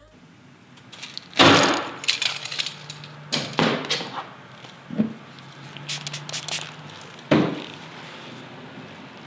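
Paintless dent repair tools being handled and used on a car body panel: a few sharp clacks and clatters, the loudest about a second and a half in, with others spread through the rest.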